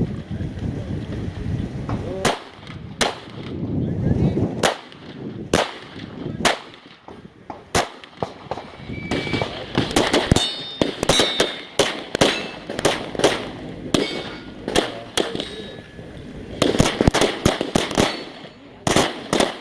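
Handgun shots fired during a practical shooting stage. They come singly about a second apart at first, then in quick strings of several shots, with some metallic ringing between them.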